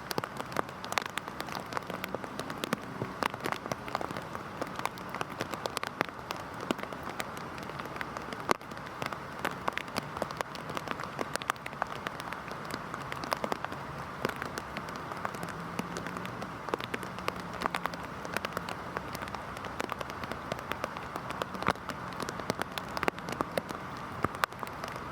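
Heavy rain falling steadily, with a constant wash of rainfall and many sharp, close drop impacts ticking irregularly throughout.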